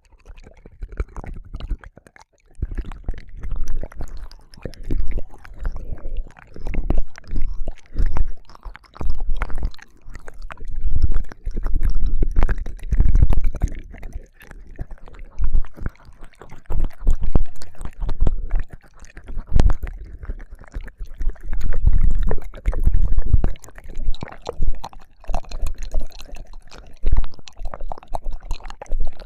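ASMR ear licking close on a binaural microphone: wet tongue licks, mouth clicks and squishes in irregular swells, with deep muffled thuds as the microphone's ear is pressed.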